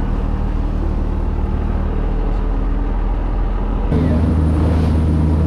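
Boat engine running steadily with a low hum. About four seconds in the sound changes abruptly to a louder, deeper engine note.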